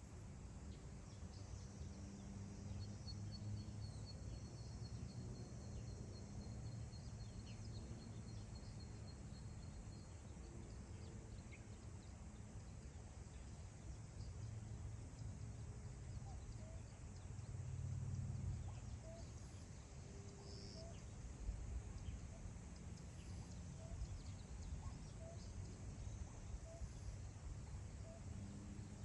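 Wind blowing across open grassland, a steady low rumble on the microphone. Faint wild birds call over it: a long, thin, high trill from about three to ten seconds in, and a row of soft short chirps in the second half.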